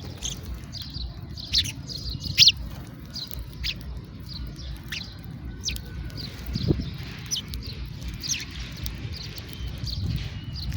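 House sparrows chirping: many short, falling chirps at irregular intervals, over a steady low background rumble.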